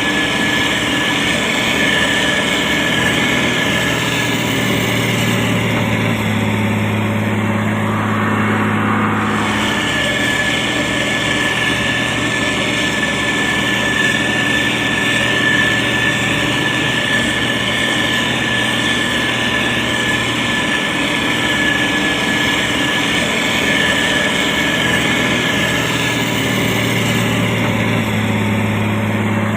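Diesel engine of a SANY STG190C-8S motor grader running steadily while spreading gravel, with a steady high whine over the engine. The engine note deepens briefly twice, about six seconds in and again near the end.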